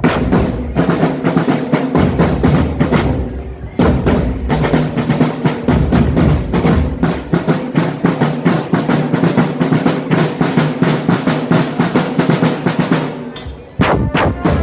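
Marching drumband playing: snare drums rolling and bass drums beating under held pitched notes. The playing falls away and comes back in with a sudden loud hit about four seconds in and again near the end.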